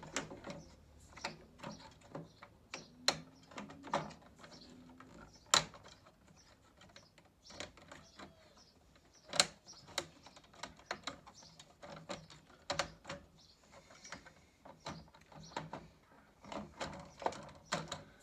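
Irregular clicks, taps and knocks of parts being handled and fitted back onto a stairlift carriage, with a few sharper knocks in the middle.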